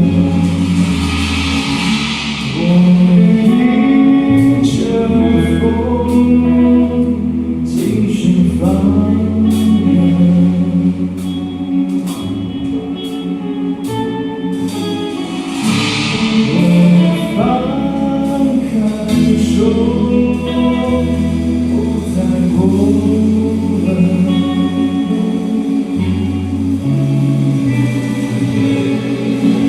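A rock band playing an original song: sung vocals over held bass notes, with percussion hits throughout.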